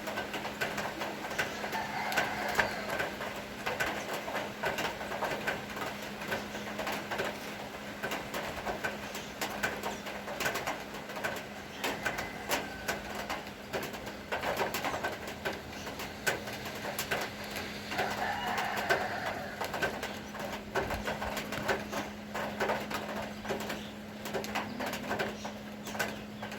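Rain dripping and tapping in irregular ticks, with a bird calling twice, once a couple of seconds in and again past the middle, over a steady low hum.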